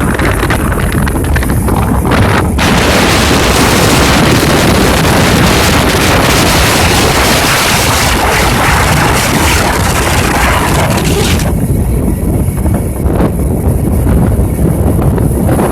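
Loud rushing floodwater with wind buffeting the microphone. The hiss turns brighter and fuller about two and a half seconds in and falls back to a low rumble about eleven seconds in.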